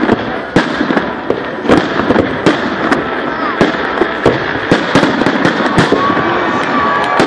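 Fireworks salute: aerial shells bursting in a string of sharp bangs, roughly one or two a second, over the voices of onlookers.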